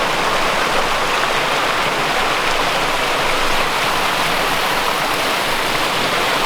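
Steady, even rush of flowing water from a stream or small waterfall.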